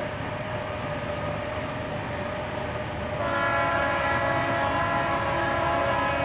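Southern Pacific diesel freight locomotives running with a steady whine, and about three seconds in a multi-note locomotive air horn sounds and is held.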